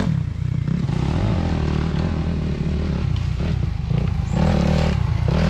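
Engine of a small off-road vehicle running steadily.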